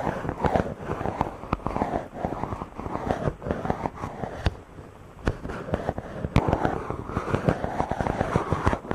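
Fingers rubbing directly on a microphone: scratchy friction noise that swells and fades in repeated strokes, dense with crackling clicks.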